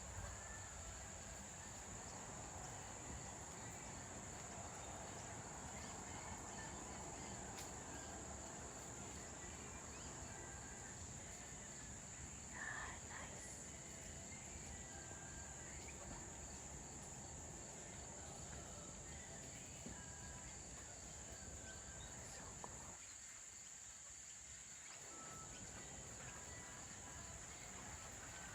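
Steady, high-pitched insect chirring, faint, with one brief sound about halfway through.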